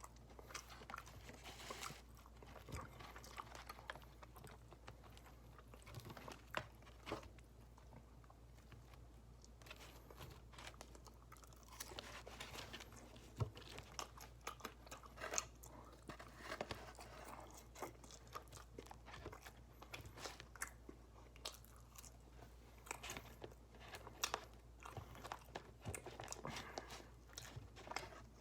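A person chewing and eating loaded fries with brisket and melted cheese, faint, with many small irregular mouth clicks and smacks.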